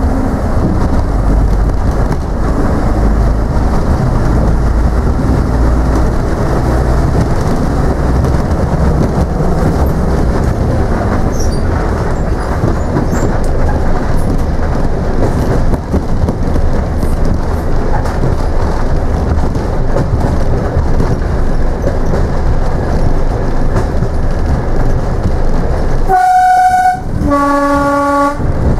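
A train running with a steady low rumble. Near the end its horn sounds twice: a short higher note, then a longer, lower note.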